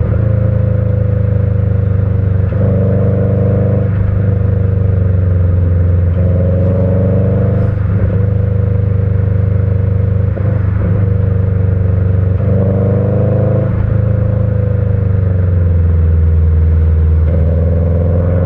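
Subaru EJ20 turbo flat-four, with stock unequal-length headers and a Kakimoto muffler, running under way with its uneven boxer burble. The revs climb and drop several times, with brief breaks between, as the car is driven through a twisty mountain road on a five-speed manual.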